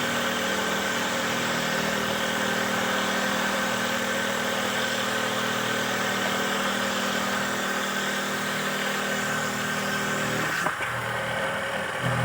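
Homemade wooden dowel-making machine running steadily, a motor hum with a hiss over it. About ten and a half seconds in, the hiss and most of the hum drop away abruptly.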